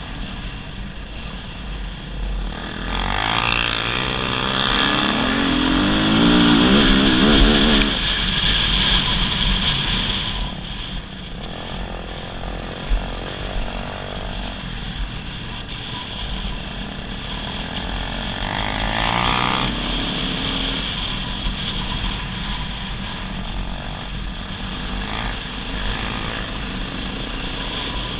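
Dirt bike engine running along a trail, revving up in two surges of acceleration, the first a few seconds in and the second about two-thirds of the way through, over a steady low rumble.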